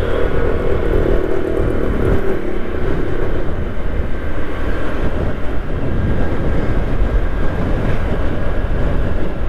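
Motorcycle on the move: a steady, loud rush of wind buffeting the microphone over the engine running.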